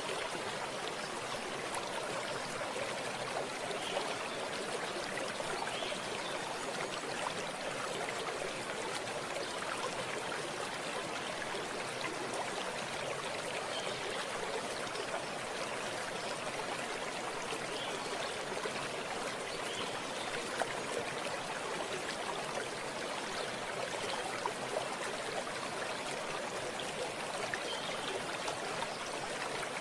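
Stream water running and trickling steadily, an even rushing noise with small gurgles.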